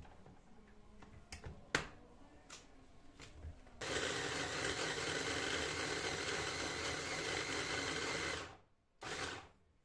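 A small electric kitchen appliance motor runs steadily for about four and a half seconds, stops, then runs again in one short pulse near the end. A few faint knocks come before it.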